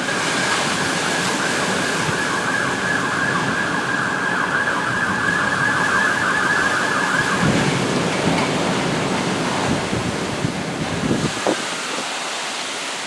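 Tropical-storm-force wind with a dense, rushing noise and a high, wavering whistle over it for about the first seven seconds, after which the whistle stops.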